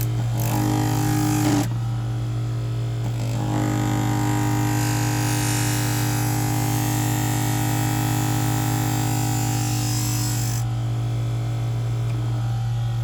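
An electric scissor-sharpening grinder's motor runs with a steady hum, and a knife blade is ground against its spinning wheel in two passes. There is a short grinding contact about half a second in and a longer one from about three and a half to ten and a half seconds.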